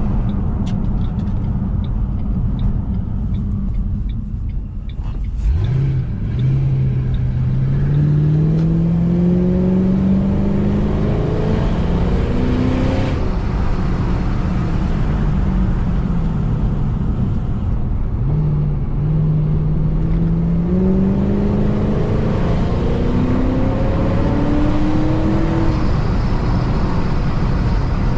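Supercharged 4.6-litre V8 of a 2006 Ford Mustang GT, idling low at first, then accelerating hard about five seconds in, its note climbing and dropping back at each gear change. It eases off and winds down in the middle, then pulls up through the gears again.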